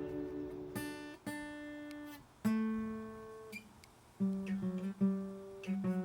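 Background music: acoustic guitar picking single notes and chords that ring out and fade.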